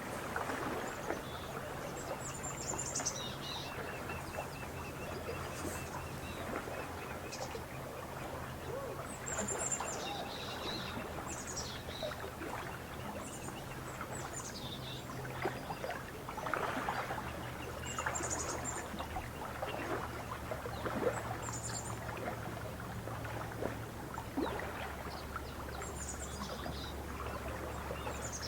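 Lakeshore ambience: a bird repeatedly gives short, high, downward-sliding calls every few seconds, over gently lapping water and a steady low drone.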